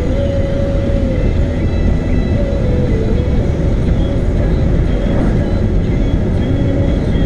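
Car driving, heard from inside the cabin: a steady low rumble of road and engine noise, with an engine or drivetrain hum that shifts slightly in pitch now and then.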